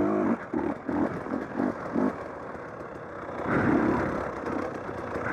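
Dirt bike engine running while ridden over a rough trail. The throttle is blipped in short pulses, about two or three a second, for the first two seconds, then a longer surge of engine and riding noise comes in past the middle.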